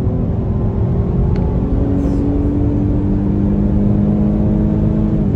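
BMW M135i's turbocharged 2.0-litre four-cylinder engine pulling hard under full throttle, heard from inside the cabin, with tyre and road rumble underneath. The engine note steps down partway through as the automatic gearbox shifts up.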